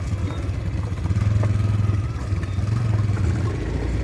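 Car engine running under load as the vehicle drives on, its drone swelling and easing, with small rattles and knocks from the body.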